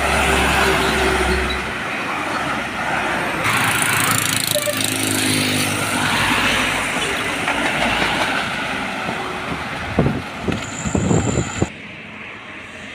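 Heavy truck passing on the road with diesel engine and tyre noise, a few loud sharp bursts near the end, then the sound drops suddenly.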